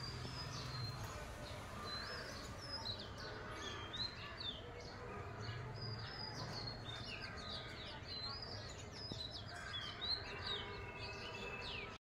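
Several small birds chirping and twittering, many short quick calls overlapping, over a faint low rumble of background noise.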